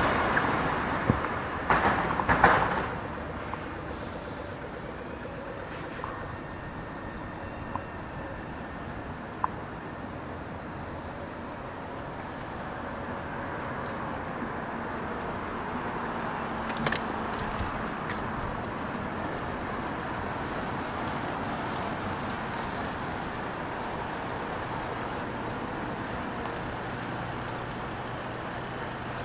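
Steady road traffic noise, with a louder pass dying away over the first few seconds and a few sharp clicks near the start.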